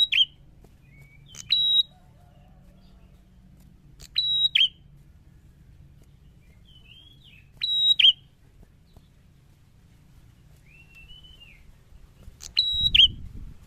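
Prinia (prenjak) calling: loud, sharp, high whistled notes, each ending in a quick downward flick, repeated about every three to four seconds, with soft twittering notes between them.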